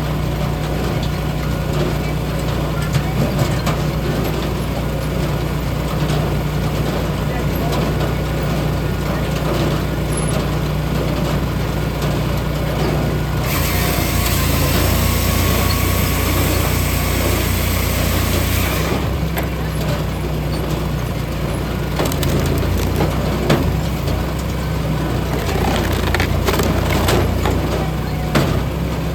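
Eastonmade EVO firewood processor running: a steady engine drone with wood cracking and knocks as logs are worked, and a loud hiss for about five seconds around the middle.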